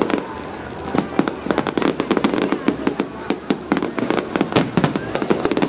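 Fireworks exploding in a rapid, irregular string of sharp bangs and crackles.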